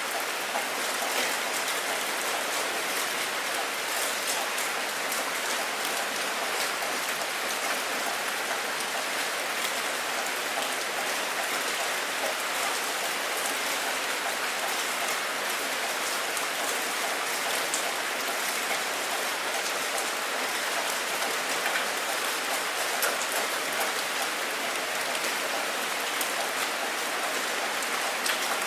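Steady rain falling, a dense even patter of drops on a surface with fine scattered ticks.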